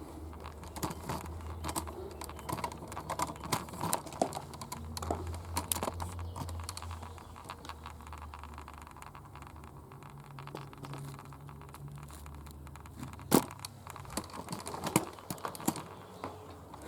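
Irregular crackling and rustling of twigs and leaves with a low handling rumble, and one sharper snap about 13 seconds in.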